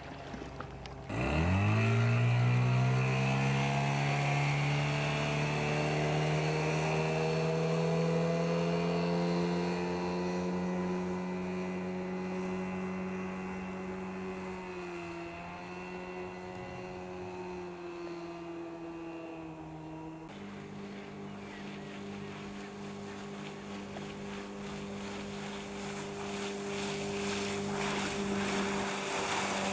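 15 hp outboard motor on a small inflatable boat opening up about a second in, its pitch climbing quickly and then holding at high revs under way. The pitch dips a little midway, jumps to a new steady note about two-thirds of the way through, and creeps up again near the end.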